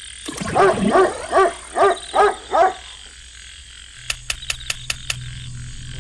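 A quick run of six short, yapping animal-like calls, each rising and falling in pitch. About four seconds in, a low steady hum starts with six sharp clicks over about a second.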